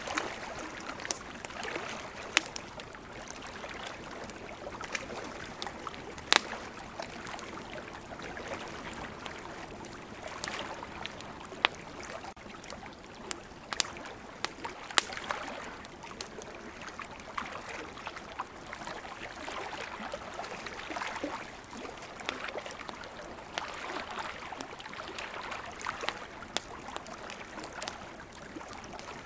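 Wood fire crackling, with frequent sharp pops, over a steady wash of ocean surf that swells and eases.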